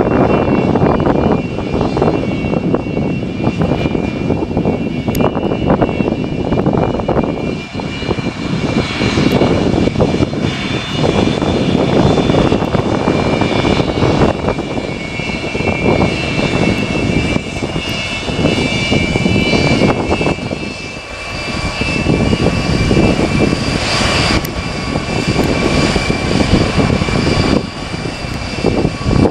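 Antonov An-124 Ruslan's four D-18T turbofan engines running loud: a deep rumble with several steady high whining tones over it.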